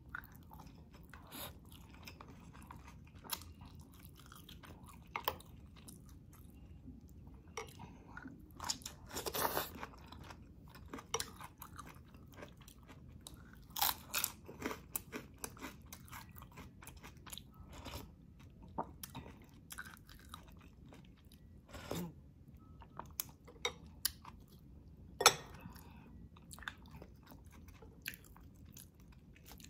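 Close-miked chewing of hand-eaten rice and fried milkfish, with scattered crunches and wet mouth clicks. A short burst of crunching comes about a third of the way in, and a single sharp crunch late on is the loudest.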